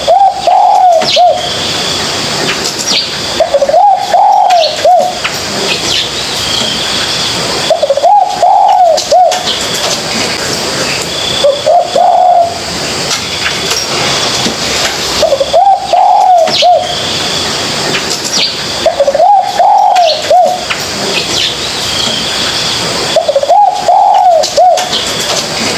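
Spotted dove cooing: a short phrase of several low notes, repeated about every four seconds, with faint high chirps between the phrases.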